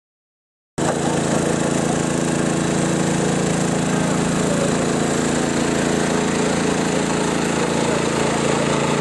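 Tractor engine running steadily at a constant speed, cutting in abruptly about a second in after silence.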